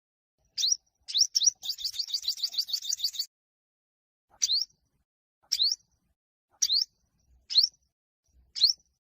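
Yellow-bellied sunbird singing its high fighting song: a few sharp rising chirps, then a fast trill of about nine notes a second lasting a second and a half, then single rising chirps about once a second.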